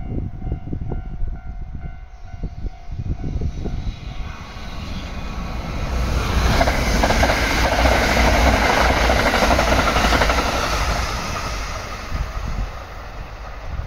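Kintetsu Urban Liner Plus electric limited express train passing at speed: a rush of motor and wheel-on-rail noise that builds, is loudest for a few seconds in the middle, then fades as the train runs away. Wind buffets the microphone in the first few seconds.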